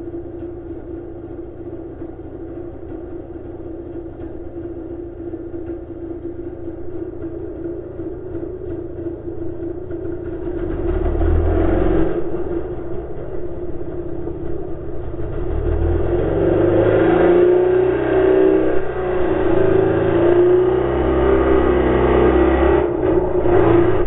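Ski-Doo snowmobile engine running, with a steady hum. About halfway through a heavy low rumble comes in and builds as the engine is revved, loudest toward the end.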